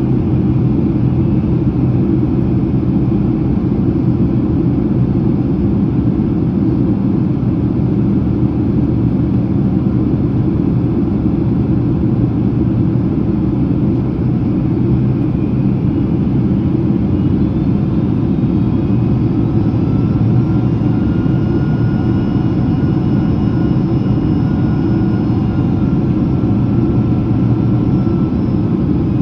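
Steady low cabin roar of a Boeing 767-300ER in descent, engine and airflow noise heard from a passenger seat. A faint high engine whine rises in about halfway through and holds.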